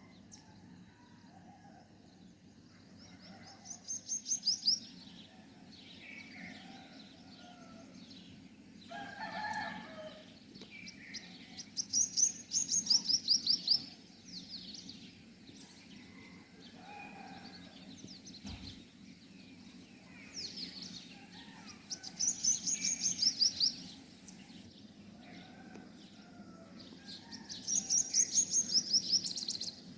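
Songbird singing: a rapid, high trilled phrase of about two seconds, repeated four times roughly every eight seconds, with softer scattered bird calls between and a steady low hum underneath.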